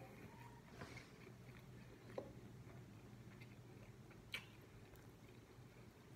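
Quiet close-up chewing of food, with a few faint soft clicks, over a low steady hum.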